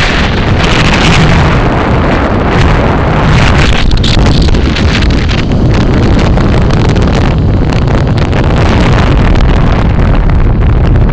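Heavy wind buffeting on the microphone of a moving rider's camera: a loud, continuous rushing rumble with no let-up.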